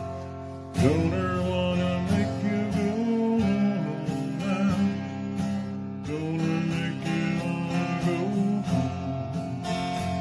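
Country-style song on acoustic guitar: strummed chords with a sung melody, starting strongly about a second in.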